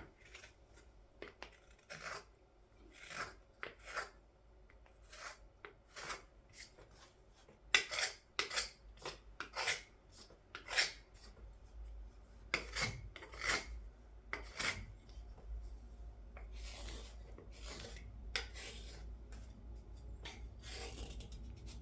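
A carving knife shaving wood from the inside of a wooden scoop's bowl: a series of short scraping cuts, each well under a second, with a few longer drawn-out scrapes near the end. This is the final thinning of the bowl wall toward an even thickness.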